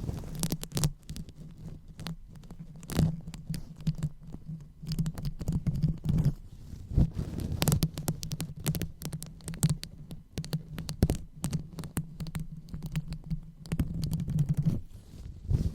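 Close-miked ASMR brain-massage sounds: the microphone is rubbed and tapped, giving a dense, irregular run of soft crackling taps over a low, muffled rumble.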